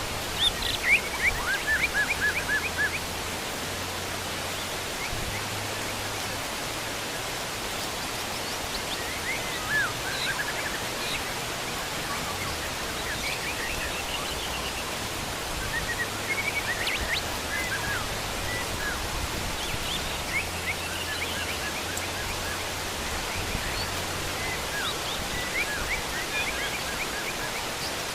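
Heavy rain falling in a steady hiss, louder and more uneven in the first few seconds. Wild birds chirp over it in short, high series throughout.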